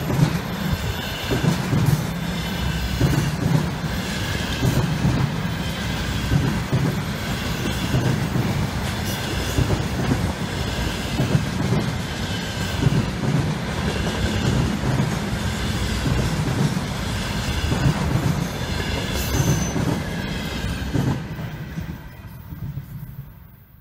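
Freight train of container flatcars rolling past at speed: a steady clatter of wheels over the rails, with a high whine from the wheels that comes back with each passing car. The noise fades away near the end as the last car goes by.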